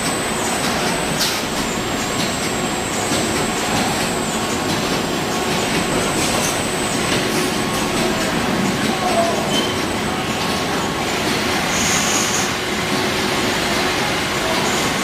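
Packaging line that bags small washing-powder sachets into a larger group bag, running steadily: a continuous mechanical din with a faint high whine and scattered light clicks.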